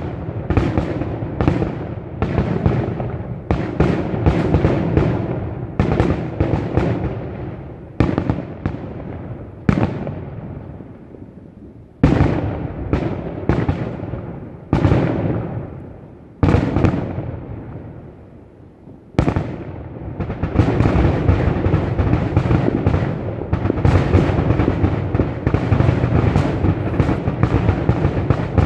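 Fireworks finale: aerial shells bursting one after another, each boom followed by a fading rumble. The bursts thin out twice, then close in a dense barrage of rapid, overlapping booms.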